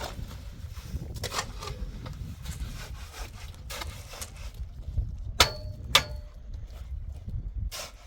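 Repeated short scraping or knocking strokes, roughly one a second, over a low steady rumble. About halfway through come two sharp knocks half a second apart, each with a brief metallic ring.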